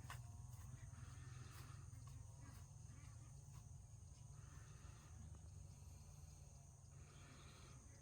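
Near silence: a faint steady low rumble with a thin, steady high-pitched hiss and a few faint clicks near the start.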